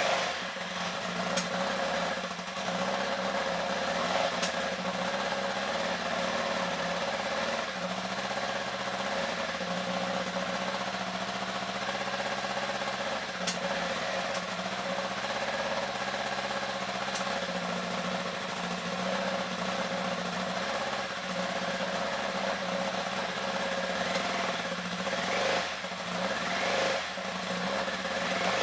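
Kawasaki Z1000 motorcycle's inline-four engine running steadily at idle, with a few quick throttle blips that raise and drop the revs near the end.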